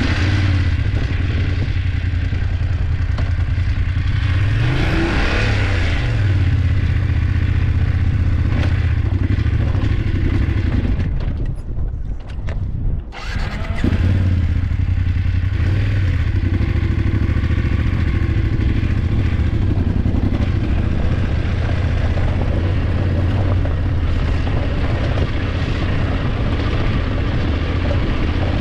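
BMW F850GS parallel-twin motorcycle engine running steadily under way, heard from the bike with rushing air. About five seconds in the pitch rises and falls, and about halfway through the engine note drops away for a couple of seconds before picking up again.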